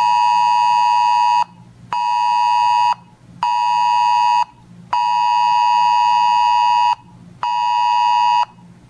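Weather radio alert beeper sounding a high, steady electronic tone in repeating pulses, longer beeps alternating with shorter ones, about five in all, signalling an incoming weather alert.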